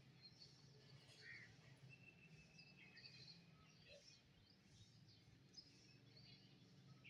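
Faint outdoor birdsong: several birds giving short chirps and whistles, one holding a brief steady whistle about two to three seconds in, over a low steady hum.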